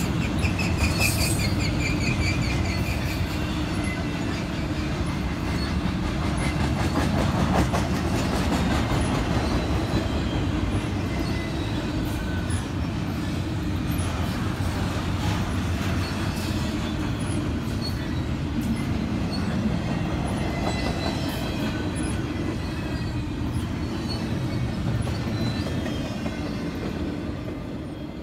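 Freight train cars rolling past on the rails: a steady rumble and rattle of wheels, with wheels squealing at the start, fading a little near the end.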